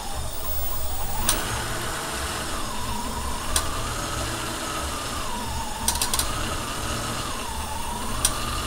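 Honda V6 engine idling roughly and unevenly, its pitch swelling up and down every couple of seconds, with a few sharp clicks. The EGR valve is being held open with 12 V, and the stumbling idle is the sign that exhaust gas now flows through the cleaned EGR passages, the expected cure for code P0401.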